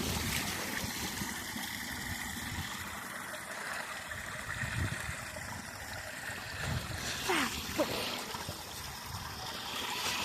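Stream water running steadily. Two short falling squeaks come about seven seconds in.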